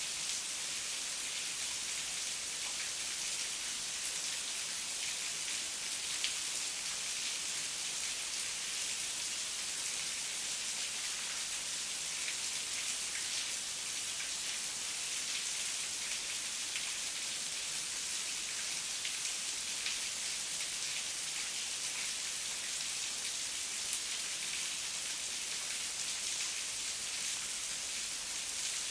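Heavy rain falling steadily, a dense even hiss of drops with many small patters on the surface.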